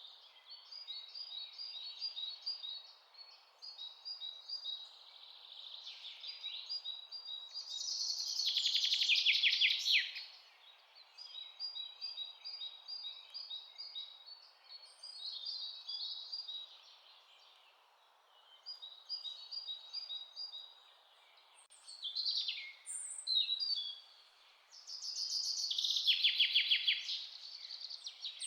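Songbirds chirping, with quick repeated high notes throughout and a louder rapid trill about a third of the way in and again near the end, over a faint steady hiss.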